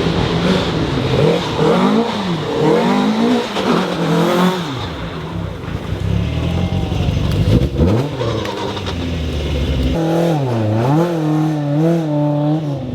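Rally car engine at full throttle, its pitch climbing and dropping repeatedly with gearchanges and lifts. A wavering, rising-and-falling engine note comes again from about ten seconds in.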